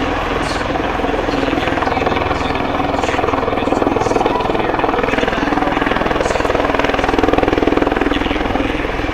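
MV-22 Osprey tiltrotor in flight: its two large proprotors make a rapid, steady pulsing beat over a low rumble. The sound swells about four seconds in and again later on.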